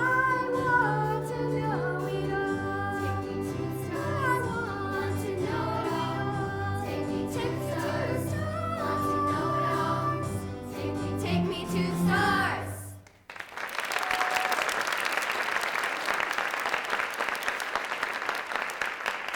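The closing bars of a song: sung vocal lines over instrumental accompaniment with a steady bass, ending with a held final note about thirteen seconds in. Audience applause follows to the end.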